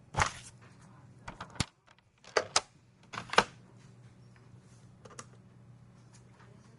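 Computer keyboard keys struck in a few irregular, separate presses, mostly in the first three and a half seconds with one more about five seconds in, over a steady low hum.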